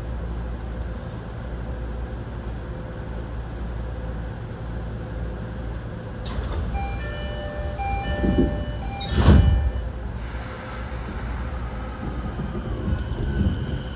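Interior of a Rinkai Line 70-000 series electric train standing at a platform, its equipment humming steadily. About seven seconds in a short chime of several tones plays, then the doors close with a loud thud. The motors start to whine with rising pitch as the train begins to move off.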